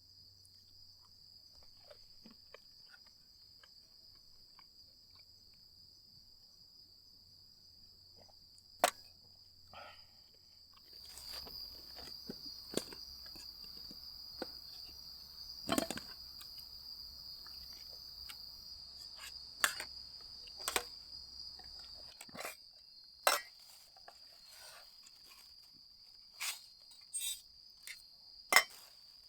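Insects singing in a steady, high, continuous trill, with scattered sharp clicks and knocks through it.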